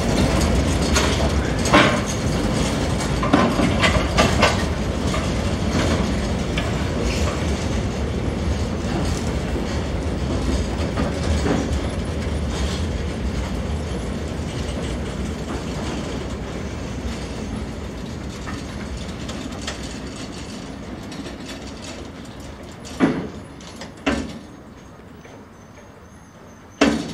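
Narrow-gauge museum train with a small red diesel locomotive and open coaches moving off: a steady rumble of engine and wheels on rail that fades as the train draws away. There are sharp wheel knocks and clicks on the track, a few early on and three louder ones near the end.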